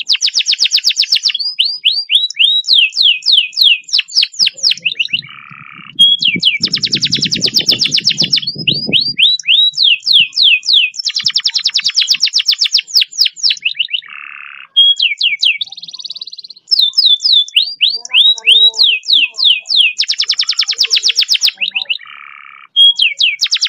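Domestic canary singing long, fast rolls: rapid trills of quick downward-sweeping notes alternating with dense buzzing rolls, in phrases a few seconds long with short breaks. A faint low rumble runs underneath for a few seconds in the middle.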